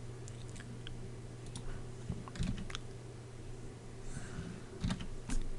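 Computer keyboard keystrokes and mouse clicks, a few scattered clicks at a time, over a steady low hum.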